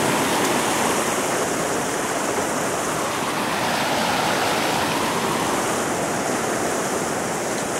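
Ocean surf rushing steadily in shallow water, a continuous wash of waves with no single crash standing out.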